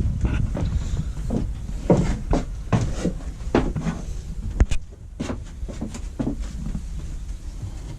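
Irregular wooden knocks and bumps inside a sailboat's small cabin, about a dozen, the sharpest about two seconds in and just under five seconds in: hatch boards and cabin woodwork handled while someone goes below to check the bilge.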